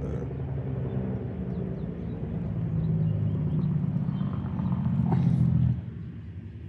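An engine running, low and growing louder, then dropping away sharply shortly before the end.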